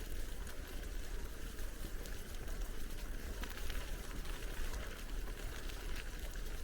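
Riding a bicycle: wind rumbling on the microphone over a steady rush of tyre noise, with many small scattered ticks.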